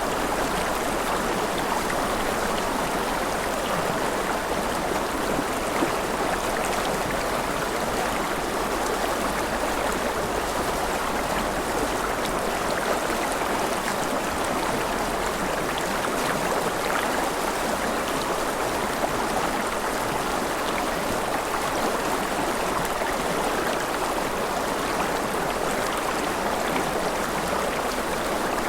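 Forest river flowing steadily over stones, a continuous rushing and babbling of water.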